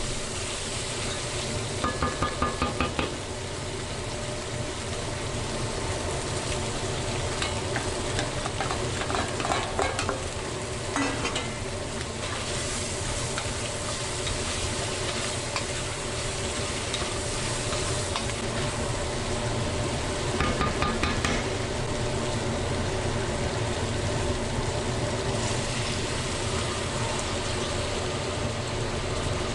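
Aromatics frying with a steady sizzle in a stainless steel pot, stirred with a wooden spoon that scrapes against the pot. Two short runs of quick, regular spoon strokes stand out, about two seconds in and again around twenty seconds in.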